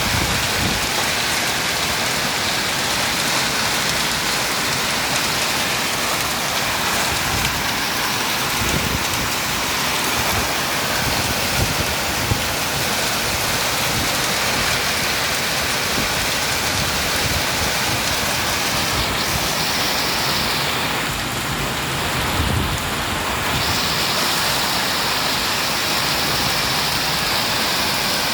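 A heavy downpour with hail: a dense, steady hiss of rain and ice pellets pelting surfaces, with scattered knocks of hailstones striking throughout.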